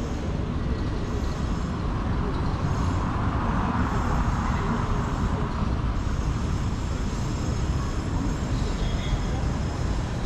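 City street traffic: a steady low rumble of engines and tyres, with a passing vehicle swelling louder around the middle and fading again.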